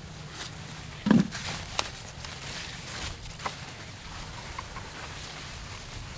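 A few scattered light knocks and clicks over a low steady rumble, the loudest a dull thump about a second in.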